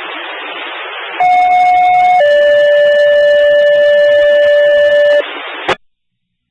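Fire-department two-tone page heard over a radio scanner: a higher steady tone for about a second, then a lower tone held for about three seconds, the alert that calls out a fire company before a dispatch. Radio hiss comes before and after the tones, and the transmission cuts off abruptly near the end.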